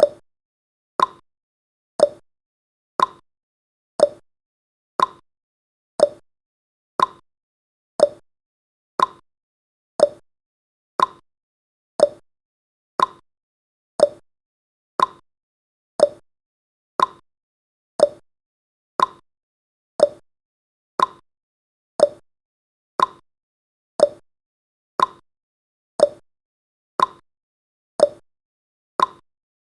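Countdown timer's tick sound effect: a short, sharp tick once every second, evenly spaced.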